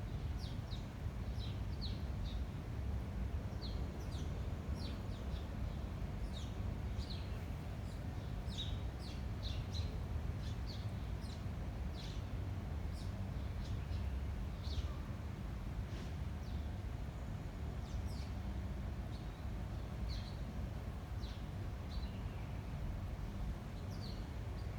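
Small birds chirping, with short, high, quick notes that repeat irregularly throughout. Underneath is a steady low rumble of wind.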